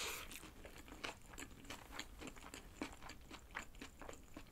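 Close-miked eating of a soft chive bread bun (filled with chives, egg salad and ham). A short bite at the start is followed by chewing, heard as a run of small, irregular mouth clicks.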